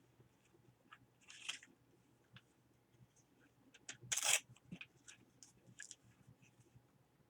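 Paper being handled at a craft table: light scattered clicks and taps, a short rustle about a second and a half in, and a louder brief scrape or rustle just after four seconds.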